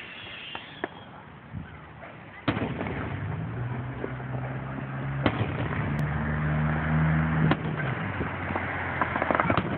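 Fireworks going off: sharp bangs every two to three seconds, the first about two and a half seconds in, with scattered crackles between them. A low steady hum sits underneath from the first bang to about three quarters of the way through.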